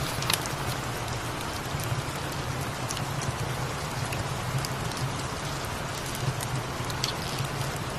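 Steady rain falling, with a cat purring in a low, pulsing hum underneath and a few sharp ticks scattered through.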